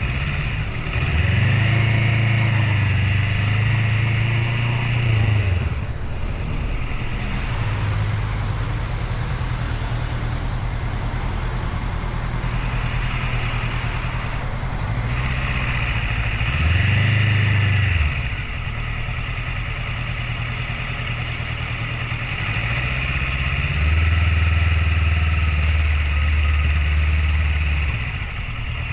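Motorcycle engine running on the move, mostly at a steady pitch, with the pitch dipping and climbing again near the start and just past halfway, as at gear changes.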